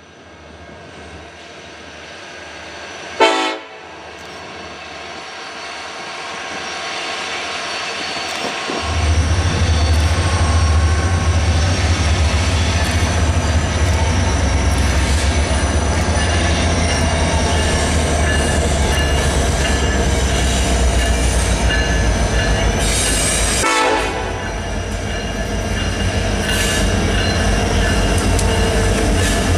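Union Pacific freight train with several diesel locomotives approaching and passing close by. A short horn blast comes about three seconds in, and the train grows steadily louder. From about nine seconds a heavy low engine rumble sets in as the locomotives come alongside, and another brief horn-like sound comes near the end before the wheels and cars roll by.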